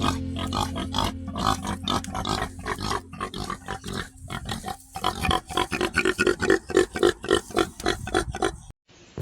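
Pigs grunting in a rapid series of short calls over a low steady hum, the calls growing louder and busier about halfway through. The sound cuts off shortly before the end.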